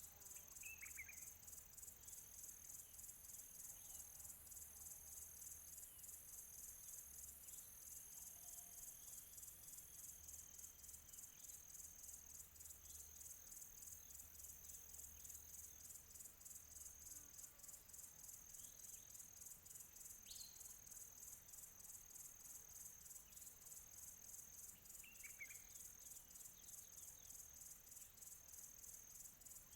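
Distant crickets chirping in a steady, fast-pulsing high chorus, with a few short bird calls: one about a second in and two more a little past the middle and later.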